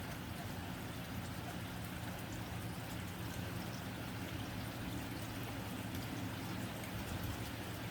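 Steady rain falling on a tin roof, an even, unbroken patter.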